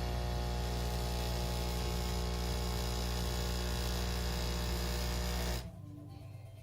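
De'Longhi Dinamica Plus espresso machine running through a flat white, its pump giving a loud, steady hum that cuts off abruptly near the end.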